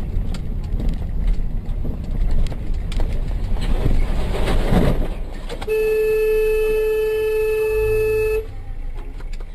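Car interior road and engine rumble, then a car horn sounds one long steady blast of almost three seconds, starting about six seconds in and cutting off abruptly.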